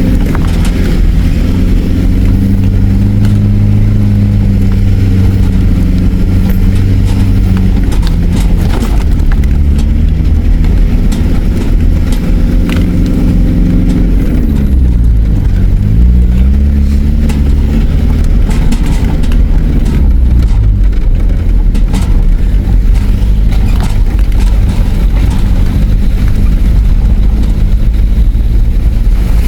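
Nissan Patrol's engine pulling at low revs up a steep river-crossing exit and along the track, its note dipping and rising again about halfway through. Knocks and clunks, mostly in the first half, from the vehicle working over the rough track.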